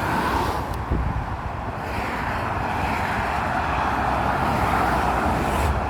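Road traffic passing close by: a steady rumble of engines and tyre noise, with no horn.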